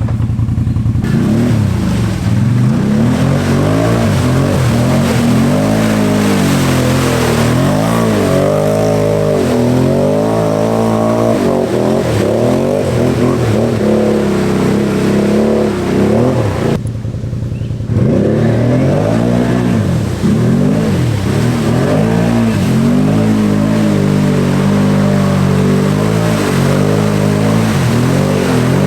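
Can-Am Outlander ATV's V-twin engine being revved hard, its pitch rising and falling over and over, with a short drop in the revs about halfway through.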